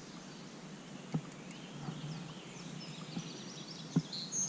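Open-air ambience: small birds chirping in quick high notes that grow busier in the second half, over a low steady background noise. Two short knocks come about a second in and near the end.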